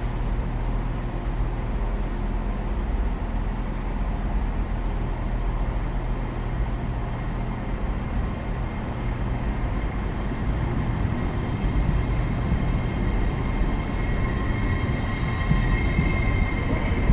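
Express passenger train pulling out of the platform, with a steady low rumble from the train. A higher whine comes in near the end as it gathers speed.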